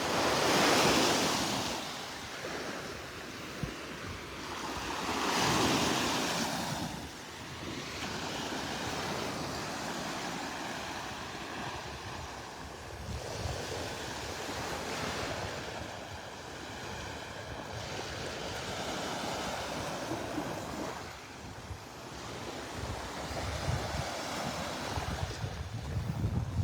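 Gulf of Mexico surf washing up a sandy beach: two louder waves in the first seven seconds, then a steady hiss of small surf.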